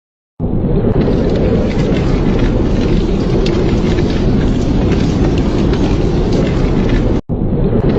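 Steady, loud rain with a low rumble and fine crackles. It cuts in suddenly after a short silence and drops out for an instant near the end.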